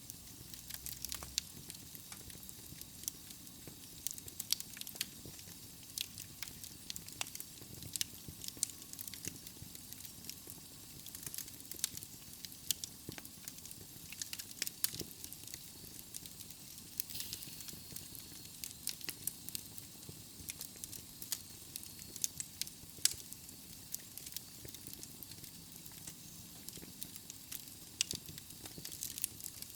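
Wood logs burning in a fireplace, crackling with frequent irregular sharp pops over a soft steady hiss.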